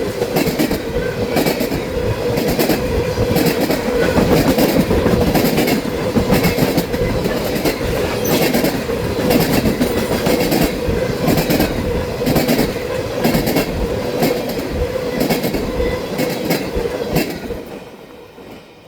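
Freight train of ethanol tank cars rolling past at speed, wheels clicking in a steady rhythm over the rail joints, with a steady wheel squeal underneath. The sound falls away near the end as the last cars go by.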